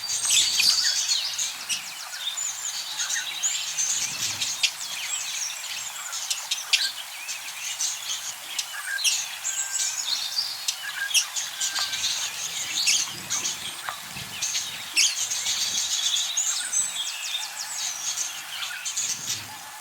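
Budgerigars chattering: a dense, continuous mix of warbling, chirps and short clicky calls.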